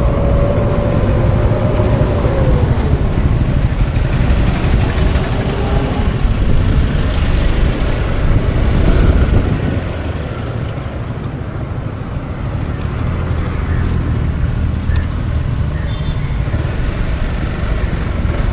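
Wind rush and road noise while riding a Honda Forza 350 scooter, under its steady engine hum. The engine's whine falls in pitch about two to three seconds in.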